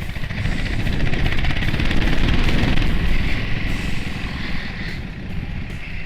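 Motorcycle engine running under way, mixed with wind noise. It grows louder toward two to three seconds in, then eases off.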